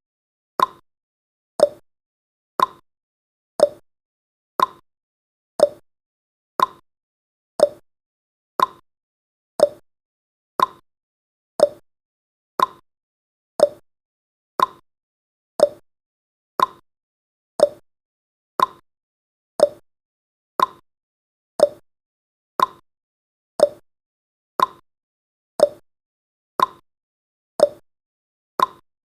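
Clock-style tick-tock sound effect counting seconds: one sharp tick a second, alternating between a higher and a lower tick.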